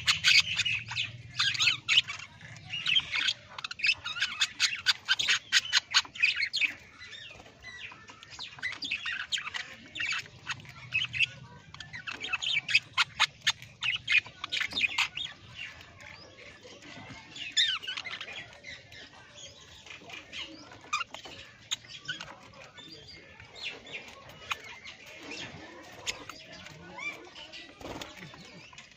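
Parrots squawking and chirping in quick, dense bursts for the first several seconds, then in scattered spells that thin out toward the end.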